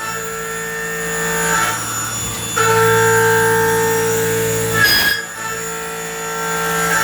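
Live-tool milling cutter on a Biglia 565 YS turn-mill lathe cutting metal, a steady whine of several held tones. The tones drop out and come back a few times, with short scraping breaks, as the cutter goes in and out of the cut.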